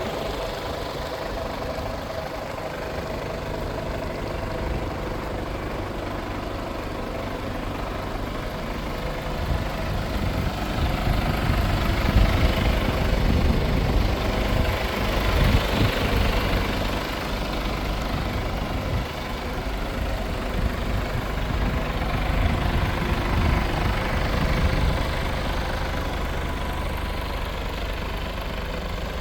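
Diesel engine of a Mercedes-Benz Actros 1843 truck idling steadily, growing somewhat louder through the middle stretch and then easing back.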